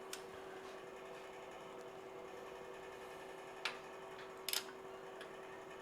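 A torque wrench's ratchet clicking briefly on the cylinder-head bolts, a few quick clicks twice, over a steady faint hum.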